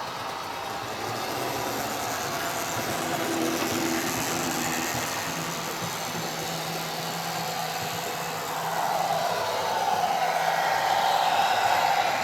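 Model diesel multiple units running round a model railway layout: a steady rumble of wheels on track, with a whine that swells and grows louder near the end as a train passes closer.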